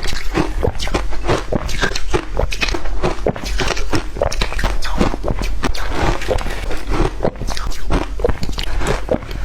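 Close-up crunching and chewing of water-dipped shaved ice, in rapid uneven crunches several a second.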